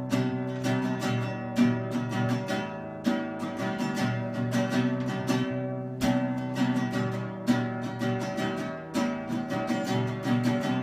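Acoustic guitar strumming chords, with the chord changing about every three seconds: the instrumental intro of an acoustic cover.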